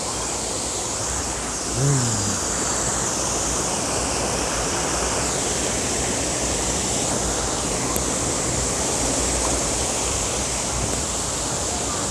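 Waterfall rushing: a steady, dense hiss of falling water. A short voice call drops in pitch about two seconds in.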